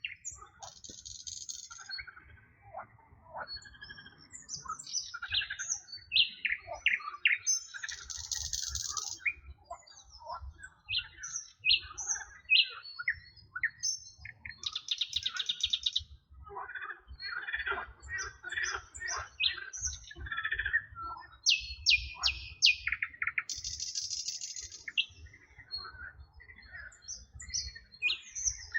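Several songbirds singing and chirping together in quick, overlapping high calls, broken every several seconds by a short buzzy rattle.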